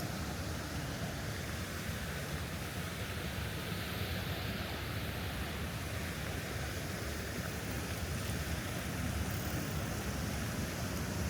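Steady outdoor street ambience: an even rushing noise with no distinct events, swelling slightly a few seconds in.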